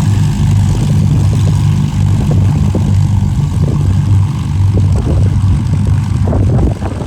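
Avro Lancaster bomber's four Rolls-Royce Merlin engines running as it taxis, a loud, steady, low drone. The sound falls away sharply near the end.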